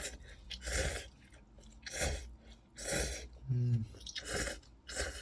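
A person slurping and eating instant ramen noodles, with about five short, noisy slurps roughly a second apart. A brief hum of the voice comes between them.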